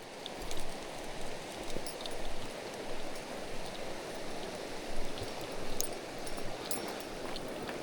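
Mountain stream rushing and babbling over rocks: a steady wash of flowing water with small splashes and droplet ticks on top.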